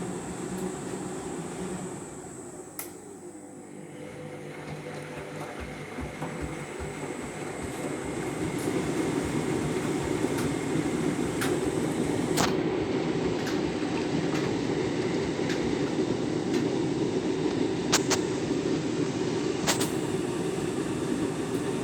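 Candy Grand'O Vita 7kg washing machine running through its Deep Rinse cycle, its motor and drum making a steady mechanical rumble. It quietens a few seconds in, then builds up over several seconds to a louder steady run, with a few sharp clicks near the middle and end.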